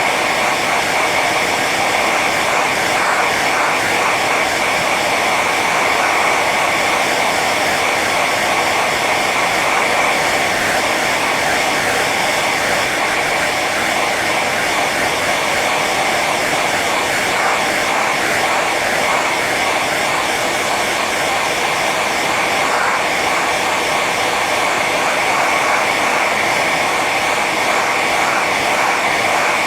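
Hair dryer running steadily on its high setting: an even rush of blown air with a steady motor whine.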